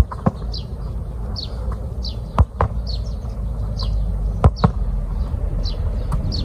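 A bird repeating a short, falling chirp over and over, with sharp knocks in close pairs about every two seconds.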